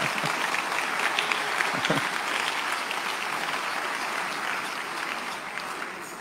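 Large audience applauding, a dense patter of many hands clapping that dies away near the end.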